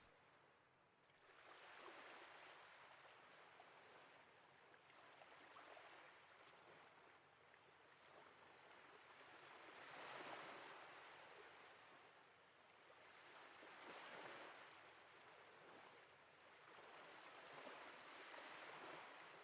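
Very faint sea waves lapping, a soft wash that swells and fades every few seconds.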